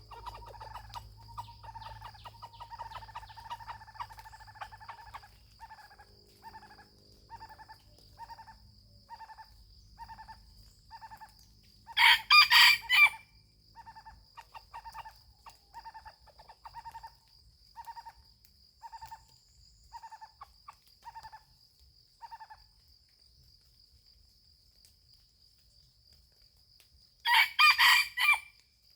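A rooster crows twice, once about twelve seconds in and again near the end, each crow about a second long and much the loudest sound; between them runs a series of short, evenly spaced clucking calls, roughly one a second. A steady high insect drone continues underneath.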